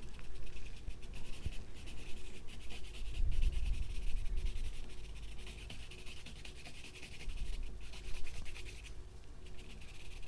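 Paintbrush loaded with white acrylic paint scratching and rubbing across the painting surface in quick strokes, with low handling bumps about three seconds in.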